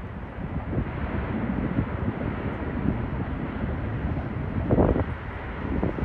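Jet airliner engine roar at an airport, steady and broad, with wind buffeting the microphone in gusts.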